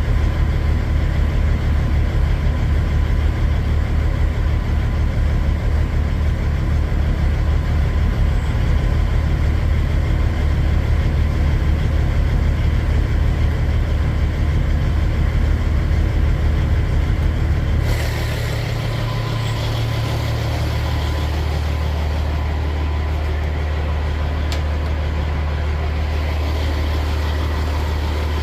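Kenworth semi-truck's diesel engine droning steadily from inside the cab while driving, hauling a loaded trailer, with road noise over it. About eighteen seconds in the sound changes and drops a little in level, then holds steady.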